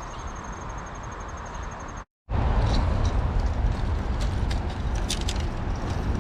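Insects trilling steadily in a pulsing high chirr; then, after a sudden cut, wind rushing over the microphone and gear rattling with scattered clicks and knocks as the electric scooter rides along.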